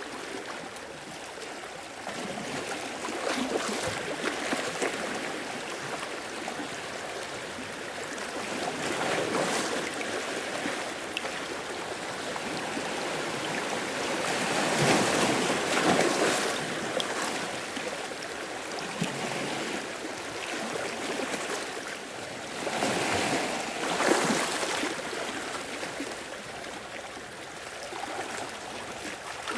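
Ocean waves washing in and draining back over rock and shore, a steady wash with surges every few seconds, the biggest around 15 and 24 seconds in.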